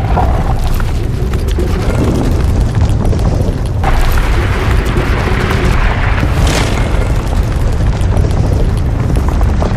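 Soundtrack of continuous deep rumbling booms and explosion effects with music underneath, with sharper blasts about four and six and a half seconds in.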